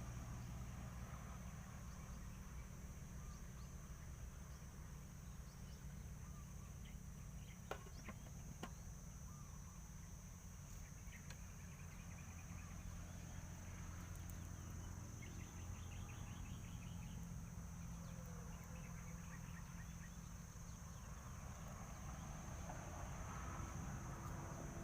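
Outdoor countryside ambience: a steady high insect drone with a faint low rumble underneath, and scattered faint bird chirps and trills. Two sharp clicks come about eight seconds in.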